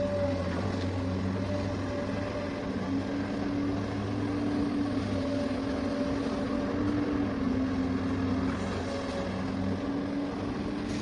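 Small electric gear motors of a toy remote-control excavator whirring steadily, their pitch shifting a little up and down.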